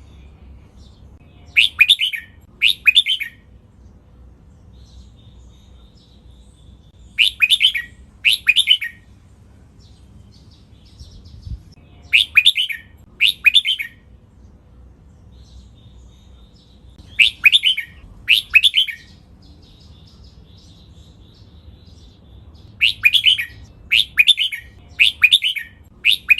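Red-whiskered bulbul singing short, bright song phrases, mostly doubled back to back and repeated every five or six seconds, with a run of four near the end.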